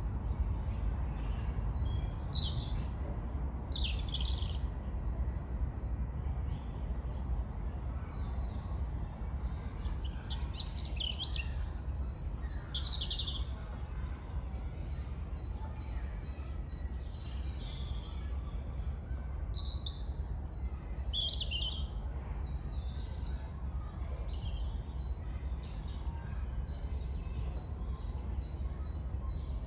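Several wild birds singing and calling, short chirps and song phrases coming and going throughout, over a steady low rumble.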